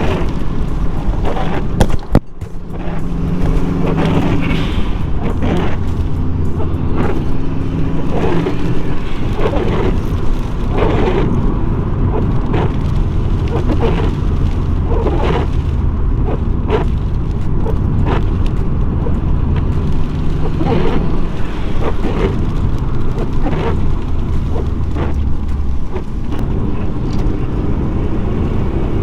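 Subaru Impreza flat-four engine and road noise while driving, the engine note rising and falling with the throttle.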